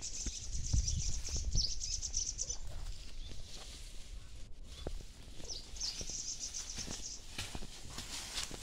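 A small bird singing a high, rapid twittering song in two phrases of about two seconds each, one at the start and one after a pause of about three seconds. Scattered crackles of steps on dry leaves sound underneath.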